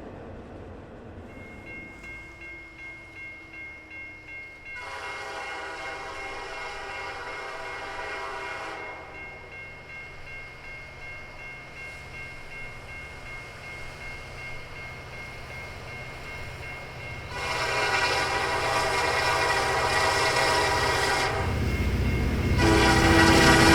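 EMD diesel locomotive horn sounding long blasts as a train approaches: two long blasts of about four seconds each, then a third starting near the end, over a growing engine rumble that gets louder as the train closes in.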